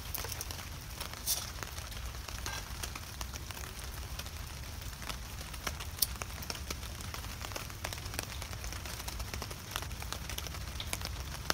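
Light rain pattering on a tarp overhead, scattered drops ticking, over a low steady rumble.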